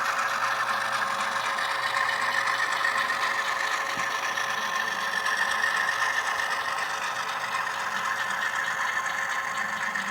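HO scale model freight train running steadily: a continuous fine clatter of many cars' wheels and trucks on the track, mixed with diesel-locomotive engine sound from the locomotives' ESU LokSound sound decoders.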